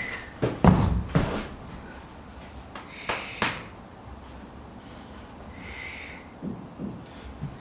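Cricket practice knocks: a few heavy thuds in the first second and a half, then a sharp crack about three and a half seconds in, typical of a ball meeting the bat and hitting the net.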